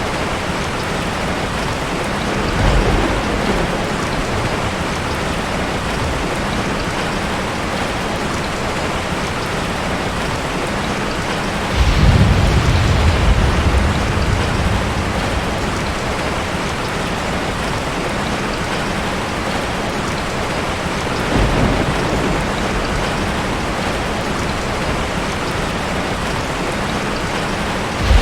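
Steady heavy rain, with three low rumbles of thunder rolling under it; the loudest comes in suddenly near the middle and lasts a few seconds.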